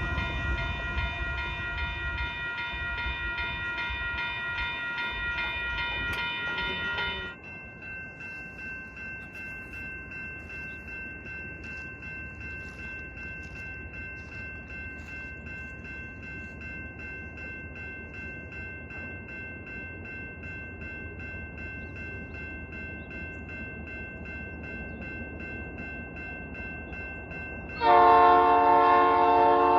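Diesel freight locomotive's horn blowing a chord, cutting off about seven seconds in. A bell then keeps ringing at an even pace. The horn sounds again near the end, louder.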